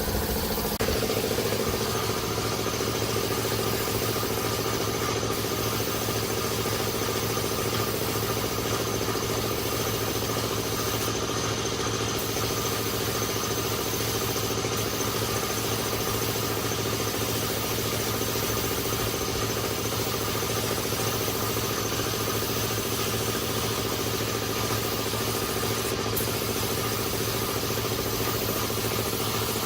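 A motor or engine running steadily at an even speed, with a slight change in its tone about a second in.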